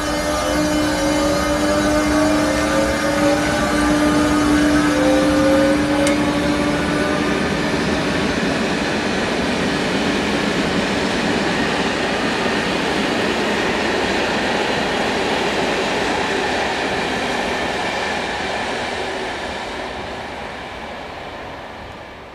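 Train pulling away: a whine that climbs in pitch in repeated steps over a steady hum, giving way to steady rolling noise that fades out near the end.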